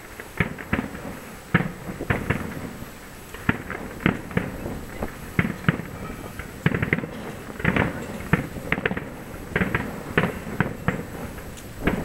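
Aerial firework shells bursting: a run of sharp bangs at irregular intervals, several coming in quick clusters.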